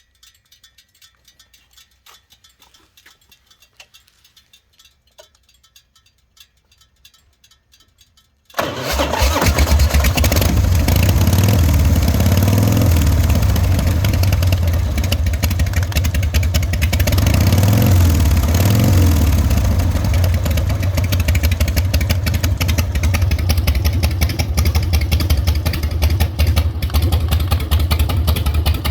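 Custom motorcycle with two S&S engines starting up about a third of the way in, after a few faint clicks, then running loud at idle with a couple of brief rises in revs.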